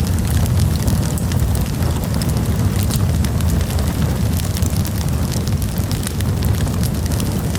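Campfire burning, wood crackling with many quick sharp pops over a steady low rumble.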